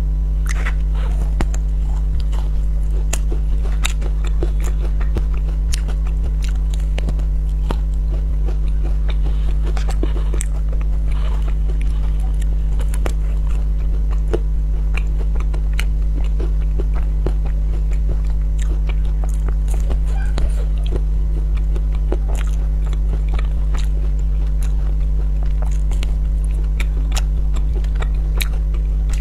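Crunchy bites and chewing of a chocolate-coated ice cream bar crusted with crushed cookie crumbs: many sharp crackles and crunches close to the microphone, over a steady low hum.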